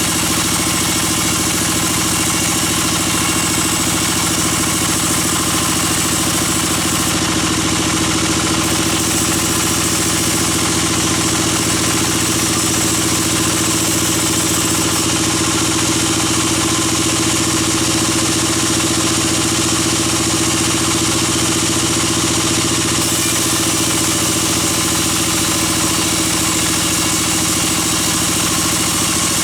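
Sawmill bandsaw machinery running steadily, a constant engine-like drone with one steady tone that neither rises nor falls.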